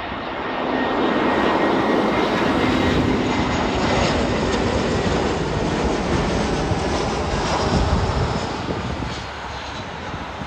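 Jet airliner landing on the runway. Its engine noise swells about a second in, stays loud for several seconds, then eases off near the end.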